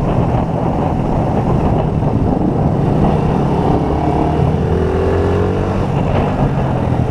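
Motorcycle engine running at steady road speed under wind rush, with a fainter higher note rising briefly about four to six seconds in.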